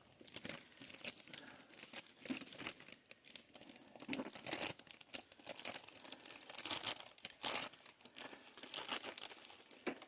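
Packing material crinkling and rustling in bursts as it is handled and pulled out of a box, with a few short tearing sounds.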